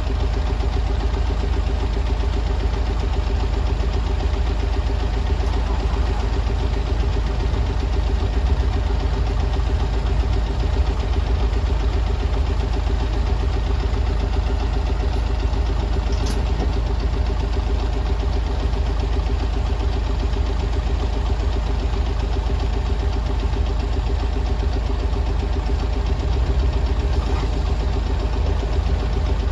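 Bus engine idling steadily with an even hum.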